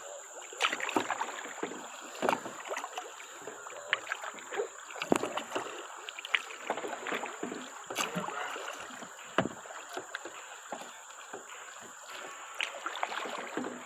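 Water splashing and lapping around a kayak on a flowing river, with irregular small splashes and drips, plus a thin steady high-pitched tone throughout.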